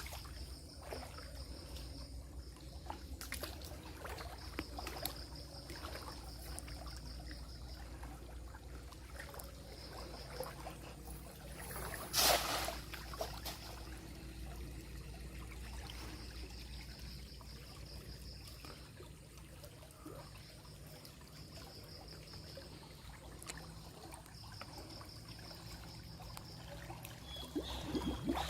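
River water trickling and splashing, with scattered small knocks and one louder splash about twelve seconds in. A thin high buzz comes and goes in short spells over a steady low rumble.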